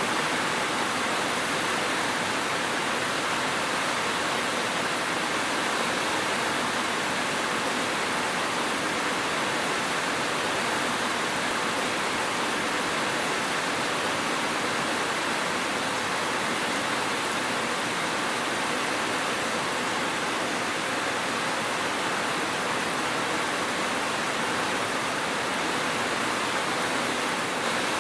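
Steady rain noise, an even hiss with no thunder or separate drops standing out.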